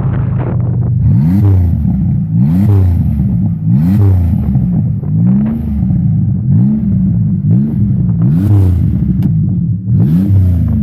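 2003 Buick's V6 running with no exhaust, open at the headers after the header bolts snapped, revved in about seven quick blips that each rise and fall in pitch over a steady idle.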